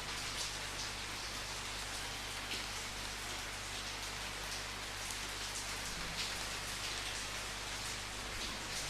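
Steady rainfall with scattered louder drop hits, an even hiss of rain on a surface.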